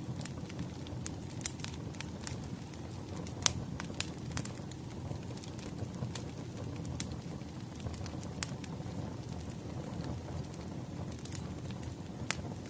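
Wood fire crackling: a steady low rumble of burning logs with irregular sharp pops and snaps, the loudest about three and a half seconds in.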